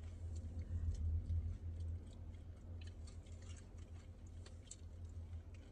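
Someone chewing food, with small irregular mouth clicks over a low steady hum.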